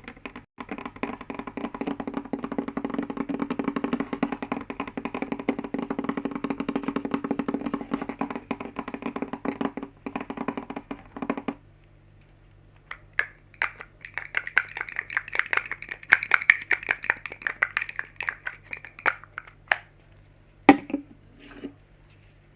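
ASMR tapping triggers: a long run of fast, dense taps on a hollow-sounding object, then after a pause a sparser run of brighter taps on a different surface, ending with one louder knock.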